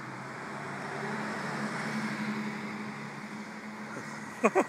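Car engine idling with a steady low hum over street traffic noise that swells for a second or two as traffic moves. Near the end come a few short, loud pitched voice-like sounds.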